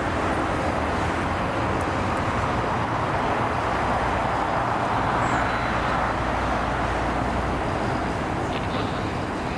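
Jet airliner passing near the runway: a loud, steady engine rush that swells to a peak about halfway through, then slowly fades.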